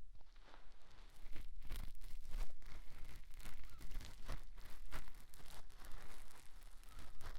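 Small cotton swab rubbing and scratching in the ear, right on the microphone: a dense, irregular run of soft crackles and scratchy strokes that grows louder about a second and a half in.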